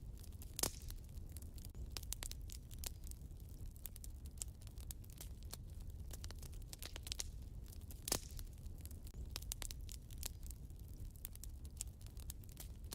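Wood fire in a fireplace crackling: a dense run of small snaps over a low steady rumble of the flames, with two louder pops, one about half a second in and one about eight seconds in.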